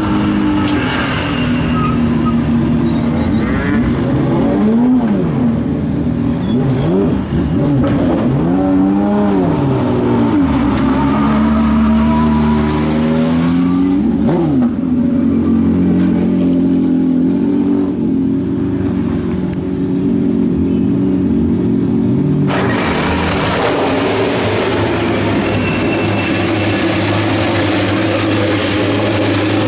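Racing car engines at a hillclimb, revving repeatedly up and down in pitch as the cars accelerate and shift. About 22 seconds in the sound cuts abruptly to a steadier engine drone with more hiss.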